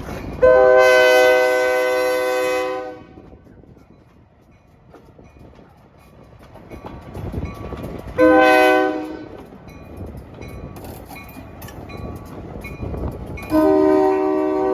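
Diesel locomotive's multi-chime air horn sounding a long blast, a short blast, then another long blast, the pattern of a grade-crossing signal, with the locomotive's rumble between blasts.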